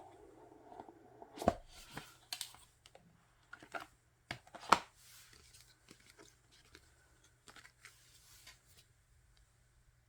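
A K-pop album and its paper and plastic packaging being handled and opened: scattered taps, clicks and short rustles, the sharpest about halfway through.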